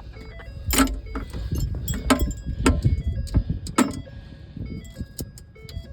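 Several sharp metallic clicks of an Allen wrench on the bolts and metal cover of a water truck's PTO air box, over the steady low rumble of the truck's engine running.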